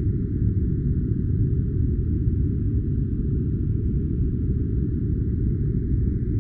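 A steady, unchanging deep noise track of the white-noise-for-sleep kind, filtered so that it is a dull, muffled rumble-hiss with almost nothing in the high end.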